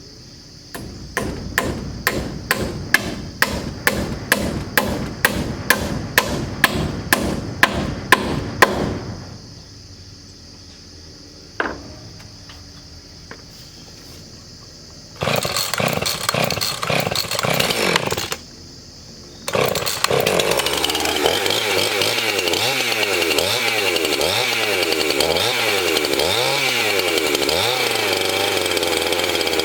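A hammer driving nails with quick repeated blows for several seconds, then a single knock. Midway a power saw starts, stops briefly, and then runs steadily, its pitch rising and falling as it cuts.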